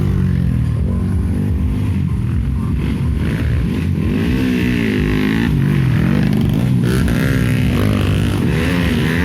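Several racing dirt-bike engines running hard, their pitch rising and falling again and again as the riders open and close the throttle.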